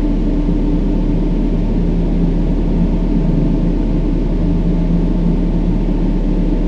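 Brown noise: a steady, deep hiss weighted toward the low end, with faint held drone tones underneath.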